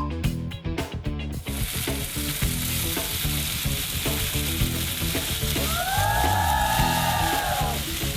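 Wood-fire roasted whole chicken sizzling on a hot plate, a dense, steady sizzle that comes in about a second and a half in, after a short drum beat, with background music underneath.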